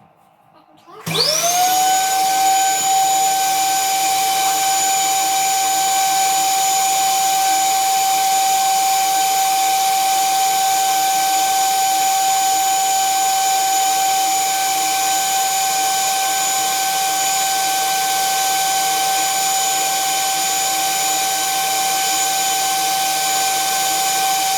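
Electric drill starting about a second in, spinning up quickly to a steady high whine and then running at constant speed.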